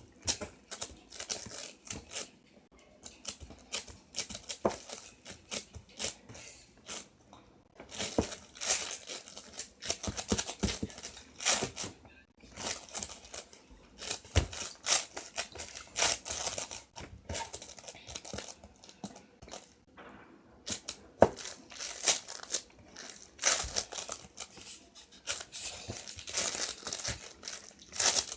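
Slime being squished and stretched by hand, giving runs of dense crackling, with brief pauses every few seconds.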